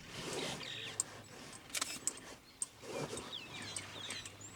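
Quiet outdoor ambience with faint, short, high chirps, a steady low hum and a few brief clicks or rustles, the loudest about two seconds in.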